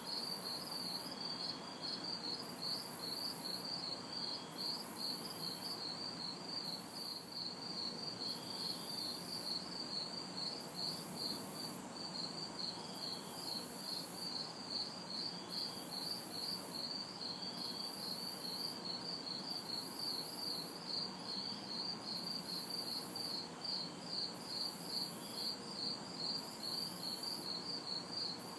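A chorus of crickets chirping in a steady, even rhythm, with a higher-pitched insect buzz pulsing on and off about every second and a half. A low hum of distant city traffic runs underneath.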